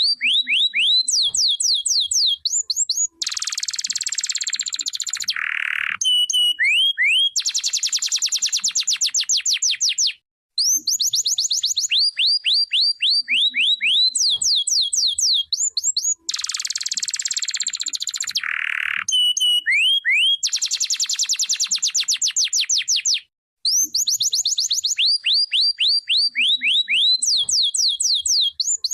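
Domestic canary singing: runs of quick rising whistled notes alternating with dense, fast rolling trills. The same song sequence comes round about every 13 seconds, after a brief break.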